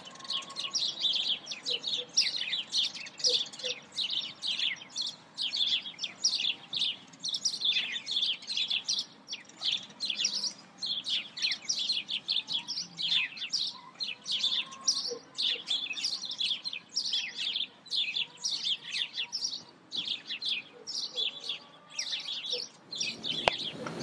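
Birds chirping: a dense, continuous run of short, high chirps, several a second, that cuts off abruptly near the end.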